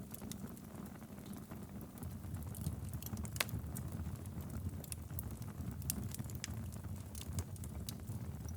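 Wood fire burning in a fireplace: a steady low rumble of flames with scattered sharp crackles and pops, one louder pop about a third of the way in.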